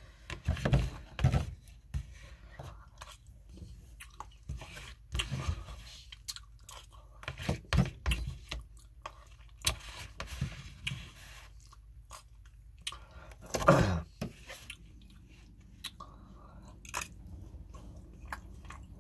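Close-miked chewing and mouth sounds of eating forkfuls of a Stouffer's Classic Meatloaf dinner, in irregular short smacks and clicks, with one louder burst about three quarters of the way through.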